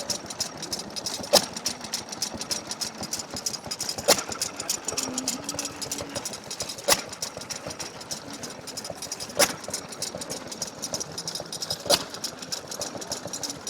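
Fuller and Johnson farm pump engine running hit-and-miss: a sharp firing bang about every two and a half seconds, coasting between firings, over a steady fast ticking.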